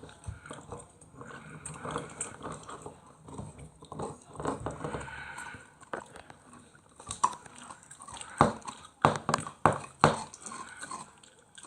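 German Shepherd puppy moving about and biting at something: scattered sharp clicks and knocks over a low scuffling, busiest in the second half.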